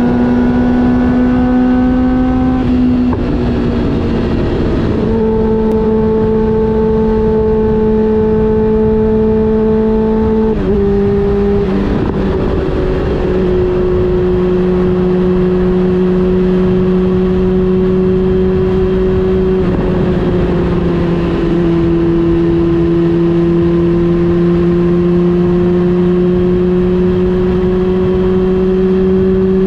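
Honda CB400 Super Four Revo's inline-four engine running at steady cruising revs, its note dropping slightly in pitch about three seconds in, again around ten to twelve seconds in, and once more just after twenty seconds. A constant rushing noise lies under the engine note.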